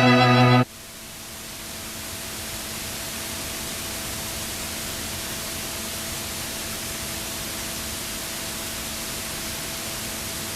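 A strong, steady rushing noise, the kind heard on board a train running at speed, with a faint steady hum beneath it; it fades up slightly after music cuts off about half a second in.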